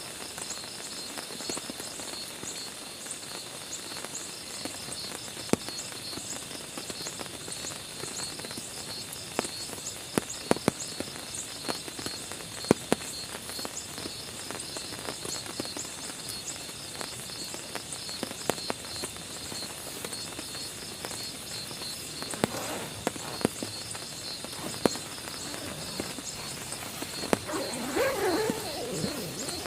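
Insects chirping in steady, even pulses over a soft continuous hiss, with scattered sharp drips tapping now and then. Near the end a brief louder sound rises over them.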